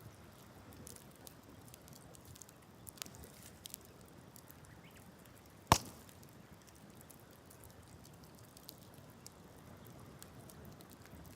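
Wood campfire crackling, with scattered small snaps and one loud sharp pop a little past halfway.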